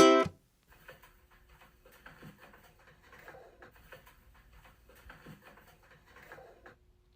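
Ukulele music ends on a final note in the first moment, followed by faint, indistinct soft clicks and rustle over a faint steady hum.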